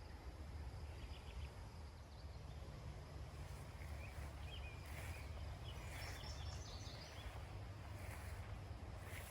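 Quiet outdoor ambience: a low steady rumble, with a few faint, short bird chirps from about four seconds in.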